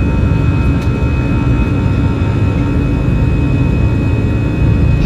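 Airplane engines running during takeoff: a steady, loud low rumble with a few constant thin whine tones above it.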